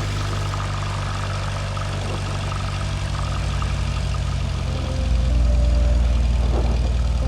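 Cessna 172 Skyhawk's piston engine and propeller running steadily at low power, then getting louder about five seconds in.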